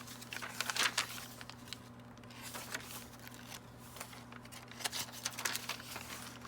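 Paper pages of a handmade junk journal rustling and crinkling as they are turned by hand, in scattered soft rustles, over a faint steady low hum.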